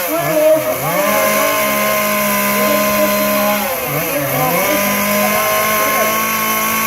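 Two-stroke chainsaw running at high revs, its pitch dipping briefly and recovering twice, once near the start and once about four seconds in.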